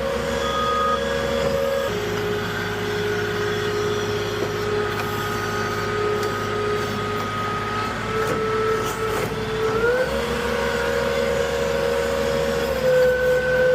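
Moffett truck-mounted forklift running with a steady mechanical whine. Its pitch steps up for a couple of seconds at the start and again near the end, then settles back down, as the revs rise and fall.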